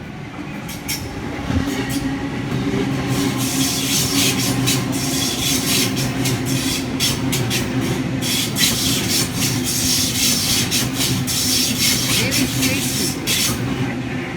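Electric suburban passenger train running through the station without stopping: it gets louder over the first couple of seconds, then a steady motor hum and rapid wheel clicks over the rail joints carry on as the carriages pass.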